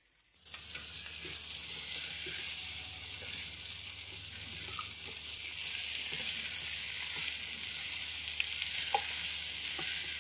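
Cut okra and onions frying in hot ghee in a metal karahi: a steady sizzle, starting about half a second in, while a spatula stirs them, with a few light clicks near the end.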